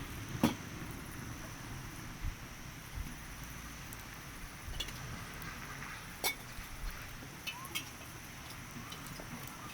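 Campfire burning with a steady soft hiss and irregular crackles and sharp pops from the burning wood.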